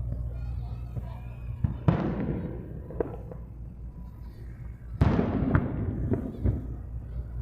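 Aerial fireworks shells bursting, with two loud booms about two and five seconds in. Each boom trails off in a rolling rumble, with smaller cracks and crackles between them.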